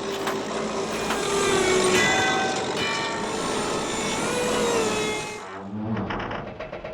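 Cartoon construction machinery running loudly, a dense din with whining tones, which drops away about five and a half seconds in to quieter low rumbling and knocks.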